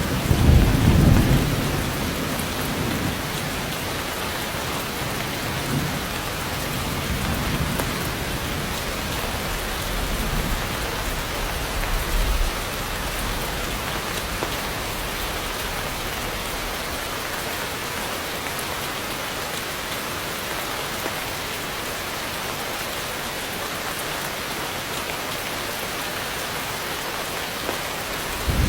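Heavy rain pouring steadily, with low thunder rumbling, loudest in the first two seconds and again briefly around ten to twelve seconds in.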